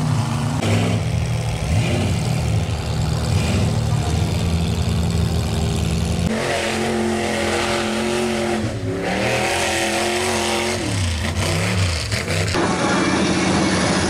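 Lifted mud truck engines revving under heavy throttle, the pitch dropping and climbing again with the throttle. The sound changes abruptly twice, about six and about twelve and a half seconds in, as one truck's engine gives way to another's.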